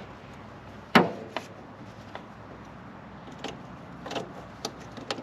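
Scattered sharp knocks and clicks, the loudest about a second in, followed by several lighter ones.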